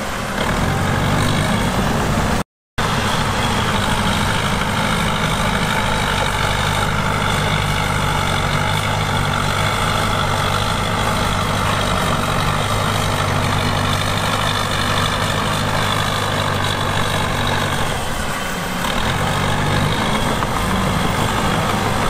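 Heavy diesel engine of earthmoving equipment running steadily, with a brief gap of silence about two and a half seconds in.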